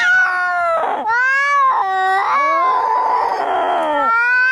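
Angry cats yowling and caterwauling in a fight: long, drawn-out wails that bend up and down in pitch, with a harsher, raspier stretch in the second half.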